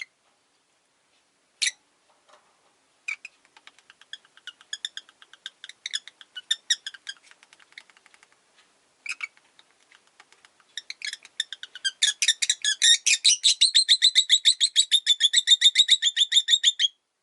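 Rosy-faced lovebird calling: a few sharp single shrieks, then quick chattering, and near the end a loud, fast run of harsh chirps, many per second, that stops abruptly.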